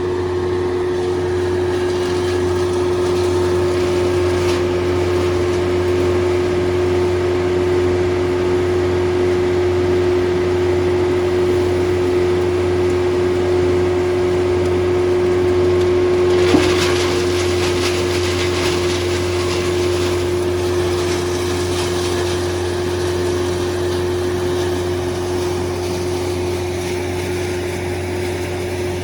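Diesel-engined wood crusher running steadily, a constant mechanical hum with a strong steady tone. About halfway through there is one sharp knock, followed by a few seconds of crackling.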